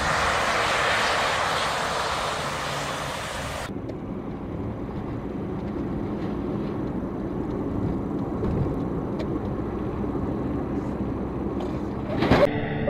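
Car road noise picked up by a dashcam: a loud hiss for the first few seconds, then, after an abrupt cut, a steady low rumble of driving. A sharp knock comes near the end.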